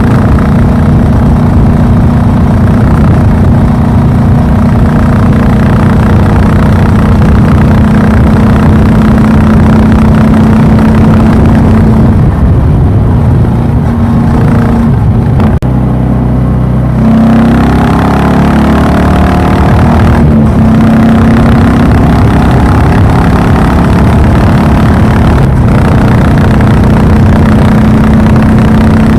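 Royal Enfield Classic 350's single-cylinder engine running with a steady exhaust note. About halfway through the note drops and its pitch shifts for a few seconds, then it settles back to the same steady beat.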